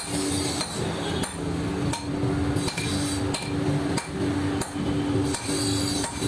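Hammer blows on metal at an even pace, about every two-thirds of a second, during a repair of a heavy-duty pneumatic impact gun's shaft, with a steady low hum between the blows.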